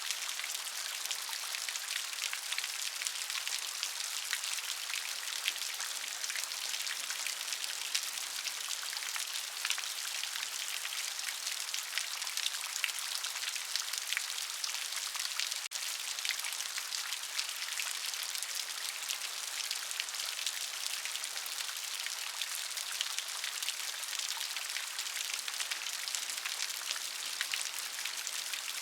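Steady rain: a dense patter of many small drops over an even hiss.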